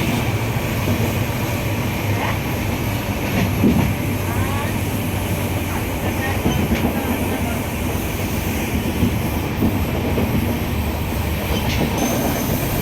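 Passenger train running at steady speed: a continuous low rumble with faint scattered clicks from the wheels on the rails.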